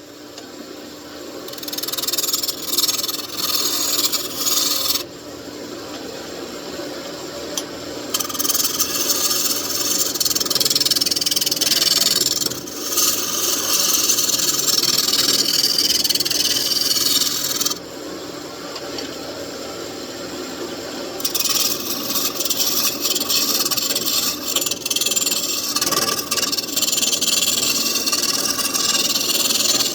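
Wood lathe spinning a mahogany blank while a hand-held turning tool cuts a tenon on it: a steady hiss of shaving wood over the lathe's hum, in long stretches that break off twice when the tool leaves the wood.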